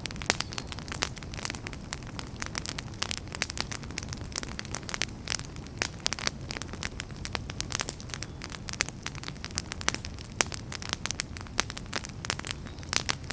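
Wood campfire crackling, with many irregular sharp pops and snaps from the burning firewood over a steady low rumble of the flames.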